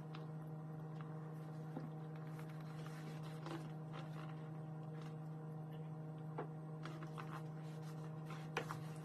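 A steady low hum with a few faint clicks and rustles over it, one slightly sharper click near the end.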